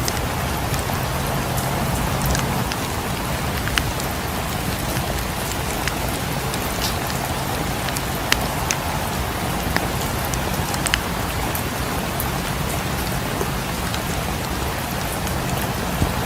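Steady rain, with scattered sharp pops and crackles from a wood fire in a fireplace a few times over the stretch.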